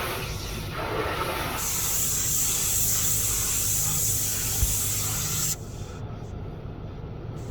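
High-pressure water spray hitting the car at a car wash, heard from inside the car: a loud steady hiss that starts about a second and a half in and cuts off suddenly about four seconds later, over the car's low idle hum.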